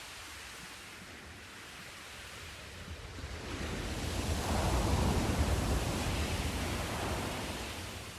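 Sea surf: a wave swells and breaks about halfway through, then washes back out and fades.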